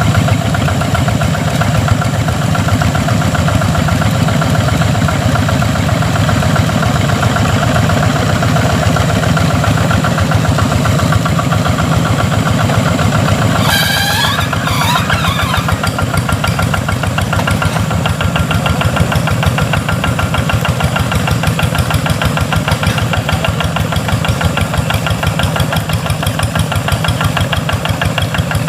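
Rice-field tractor engine running steadily with a fast, even pulse. About halfway through, a brief wavering high-pitched squeal sounds over it, after which the engine runs slightly quieter.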